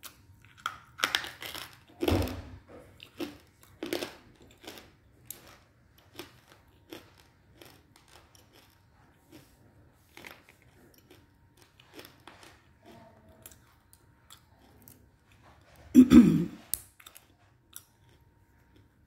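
A person biting and chewing a dry chunk of edible clay, with close crisp crunching that is densest in the first few seconds and then slows to scattered crunches. A louder, fuller crunch comes about sixteen seconds in.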